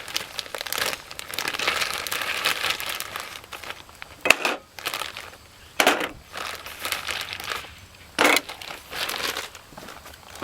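Paper or plastic wrapping crinkling and rustling as it is handled, with three sharper, louder crackles about four, six and eight seconds in.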